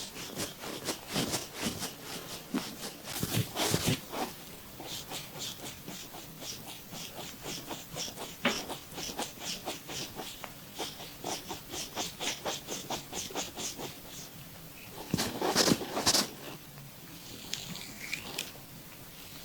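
Oiled hands massaging a bare stomach: quick, wet squelching and smacking of skin, about four strokes a second. There are louder rushes a few seconds in and again near the end, along with the stomach's rumbling and gurgling.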